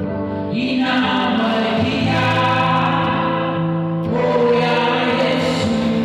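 Gospel song with choir and lead vocals singing over sustained keyboard chords.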